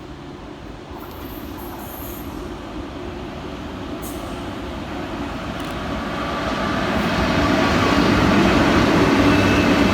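Pair of Class 90 electric locomotives hauling a freight train approaching through the station, a steady rumble and hum that grows steadily louder and is loudest over the last few seconds.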